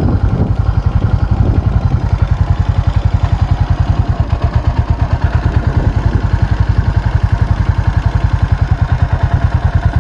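Custom Suzuki cruiser motorcycle engine running at a steady low speed, with an even, rapid low exhaust beat.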